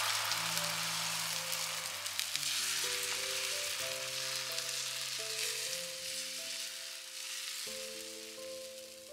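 Food sizzling in a hot pan, the sizzle slowly fading, with soft background music of held notes.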